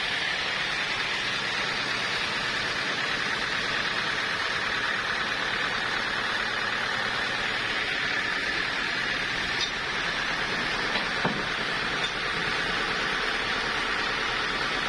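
Sawmill machinery running steadily, a constant even noise, with a few light knocks about ten to twelve seconds in.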